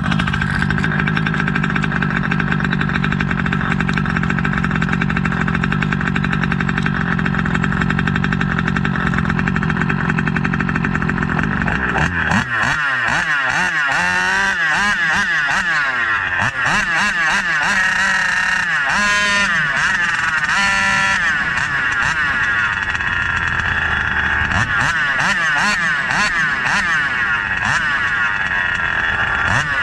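SCZ E290 29cc reed-valve two-stroke engine running at a steady pitch, then from about twelve seconds in revving hard, its pitch rising and falling over and over.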